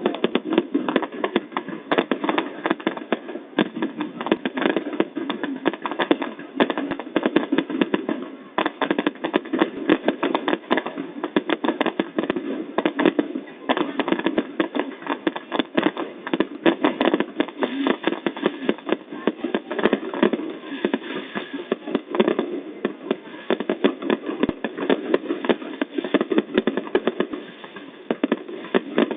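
Fireworks going off in a dense, continuous stream of rapid pops and crackles.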